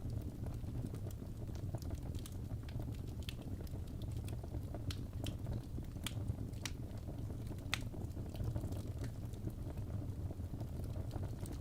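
Wood fire burning in a fireplace: a steady low roar of the flames with irregular sharp crackles and pops from the logs.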